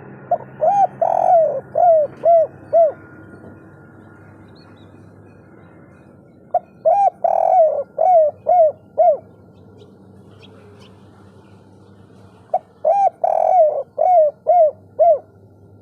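Spotted dove (tekukur/derkuku) cooing the 'kuk 3' song three times, about six seconds apart. Each phrase is a few short coos, a longer drawn note, then three short 'kuk' notes at the end.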